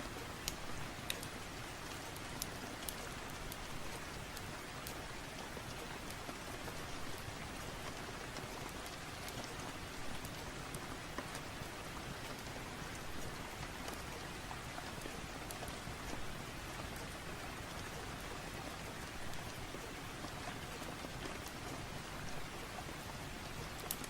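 Steady rain, an even hiss with scattered sharp ticks.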